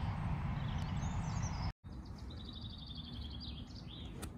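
Steady low outdoor background noise with a brief dropout partway through. After the dropout a songbird gives a rapid run of evenly repeated high chirps, and a single sharp click sounds near the end.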